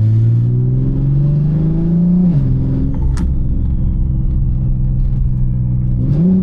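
Single-turbo BMW G80 M3's inline-six engine pulling under acceleration: the note climbs for about two seconds, drops with a gear change, holds steady, and starts climbing again near the end. A brief sharp click about three seconds in.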